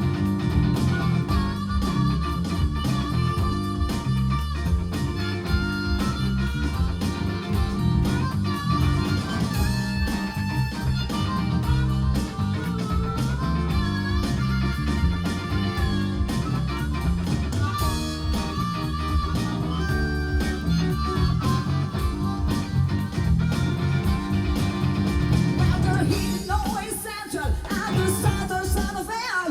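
Live band playing an instrumental blues-rock passage, a guitar line over steady bass and drums; from about 26 seconds in, sliding pitched lines come in over the band.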